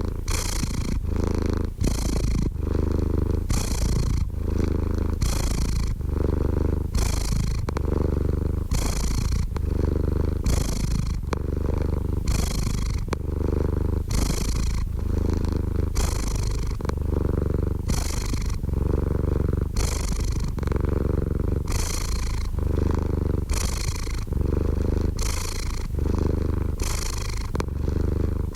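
Domestic cat purring continuously, the purr swelling and easing in a steady rhythm with each in-and-out breath, about once a second.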